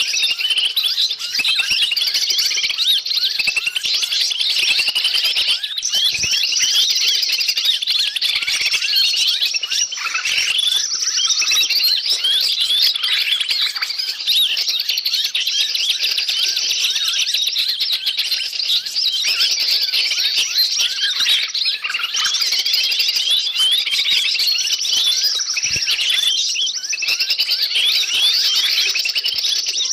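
Dense, unbroken chatter of many small birds calling at once, with high-pitched chirps and trills overlapping without pause. It is a noisy bird-luring recording meant to draw wild forest birds in.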